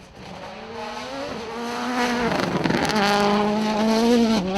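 Rally car engine under hard acceleration, getting louder as it approaches; the pitch climbs and drops back with gear changes about a second in, a little after two seconds, and near the end.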